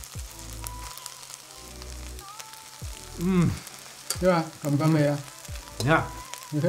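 Fried brown rice sizzling in a hot wok, a steady hiss under talk.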